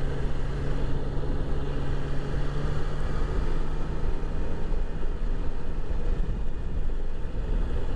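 Motorcycle engine running on the move, with wind noise rushing over the microphone; the steady engine hum fades about three seconds in, leaving mostly wind and road rumble.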